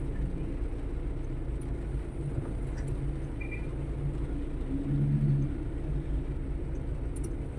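Steady low rumble of a road vehicle's engine and road noise while riding through traffic, with a brief faint voice about five seconds in.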